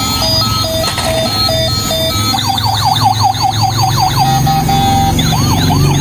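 Electronic siren: a two-tone hi-lo alternation, then about two seconds in a fast rising-and-falling yelp about five times a second, then slower wails near the end, with a low steady sound underneath.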